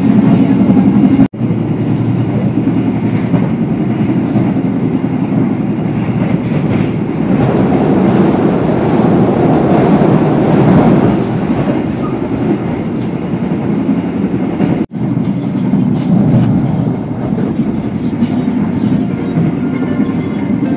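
Steady running noise inside a moving 1996-built Indonesian executive-class passenger coach, a loud low rumble with wheels clicking over the rails. The sound cuts out for an instant twice, about a second in and again later on.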